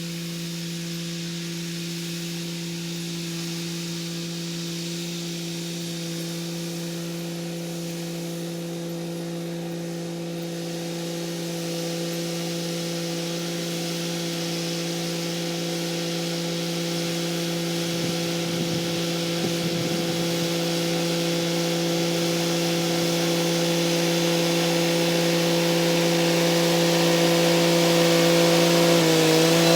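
Kubota SL35 tractor's diesel engine running at a steady speed, growing steadily louder, with a brief dip in engine speed near the end.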